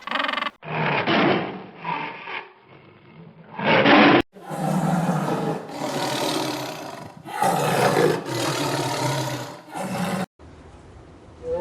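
A large animal roaring: a series of rough, rasping roars, with a change of recording a little after four seconds in.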